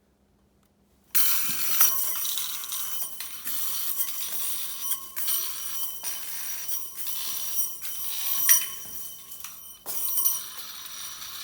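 Metal Slinky walking down a flight of steps: the coils jangle with a bell-like metallic ring, with a sharp clink each time it lands on a step. It starts about a second in.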